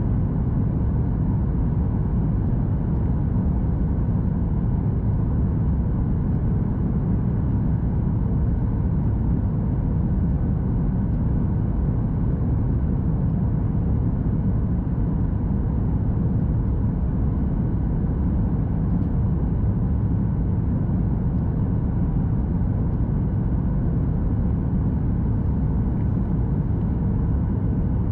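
Steady cabin noise of a Boeing 737 MAX 8 heard from inside the passenger cabin: a constant low rumble of engines and airflow with faint steady tones above it.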